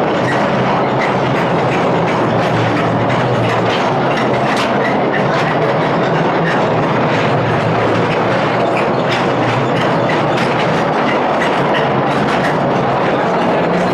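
Mine rail car running steadily on its track into the gold mine, a continuous rumble with a dense rattle and clatter of wheels on the rails.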